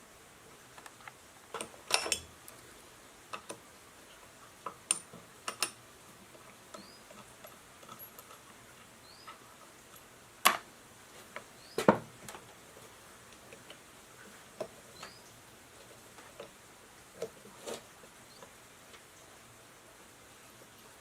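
Scattered light clicks and taps of metal tools and parts being handled on a workbench, with a few louder knocks about two, ten and twelve seconds in.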